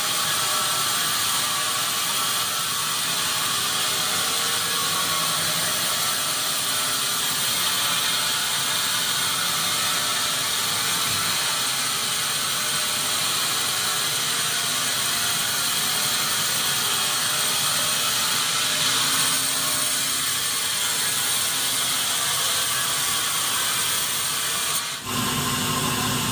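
Sawmill saw cutting through acacia wood: a steady, high-pitched rasping noise. About a second before the end the sound changes suddenly and a lower steady hum comes in.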